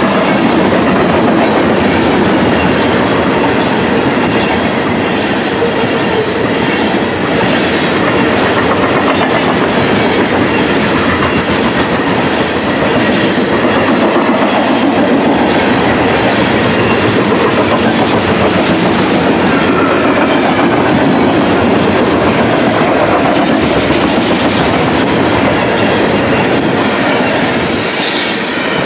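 Freight train of coal hopper cars rolling past: steady clatter and rumble of steel wheels on the rails, clicking rhythmically over the rail joints.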